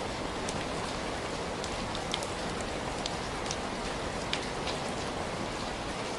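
Steady rain: an even hiss with scattered sharp ticks and pops, a few of them louder than the rest.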